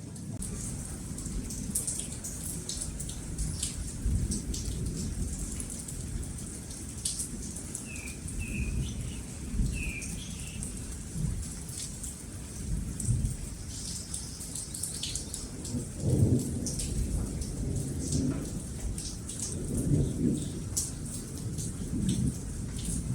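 Rain falling steadily with low rolling thunder that swells about two-thirds of the way through and again near the end. A bird chirps a few times about a third of the way in.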